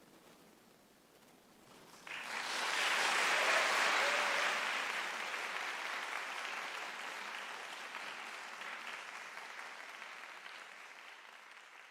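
Audience applause that breaks out suddenly about two seconds in after a brief hush, swells quickly, then slowly dies away.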